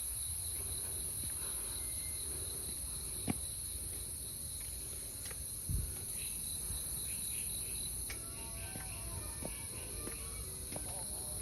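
Steady, high-pitched drone of insects, unbroken throughout, with two short soft knocks about three and six seconds in.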